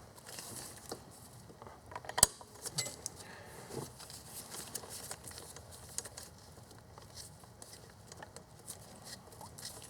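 Fuel hose being pushed into a plastic fuel-line quick-connect fitting: light clicks and rattles of plastic and metal parts being handled, with one sharp click about two seconds in.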